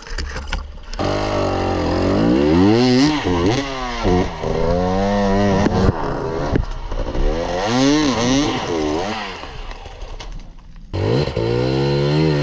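Enduro dirt bike engine revving hard, its pitch rising and falling over and over as the throttle is worked. The engine drops away briefly about a second before the end, then comes back in with a sudden burst.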